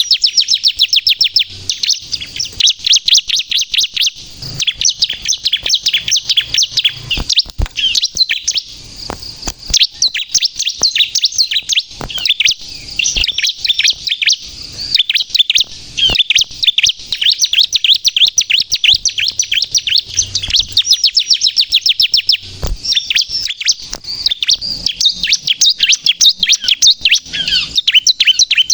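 Bar-winged prinia (ciblek) singing nonstop: fast trills of sharp, high chirps follow one another with only brief breaks.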